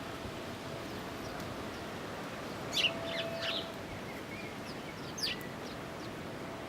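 Small garden birds giving short, sharp, high chirps: a quick cluster about three seconds in and another single call just past five seconds, over a steady outdoor hiss with a faint hum that comes and goes.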